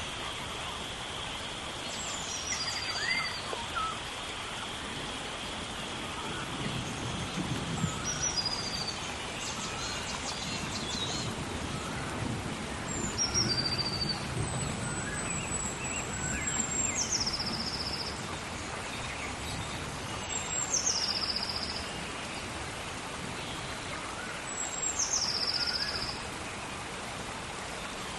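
Steady rain hiss in a tropical rainforest, with a bird calling over it again and again: each call is a high note that drops in steps, repeated roughly every four seconds. A steady high whine fades out about a third of the way in, and there are low rumbles in the middle.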